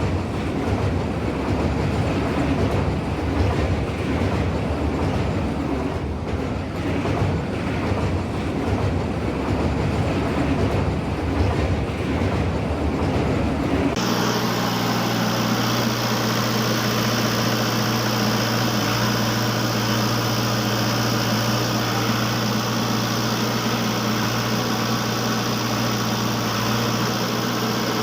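Train passing a crossing: a rumbling clatter of rolling wagons for about fourteen seconds, cut off abruptly by a steady engine hum that runs on.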